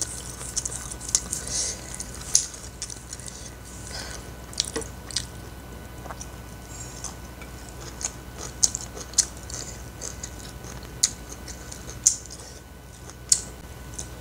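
Close-miked eating sounds of a person chewing a meal eaten by hand: wet chewing and mouth smacks, with irregular sharp clicks, a few much louder than the rest, over a faint steady hum.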